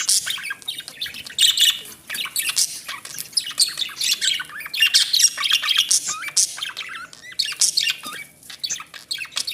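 A flock of budgerigars chattering: many overlapping high-pitched chirps, squawks and warbles with no break.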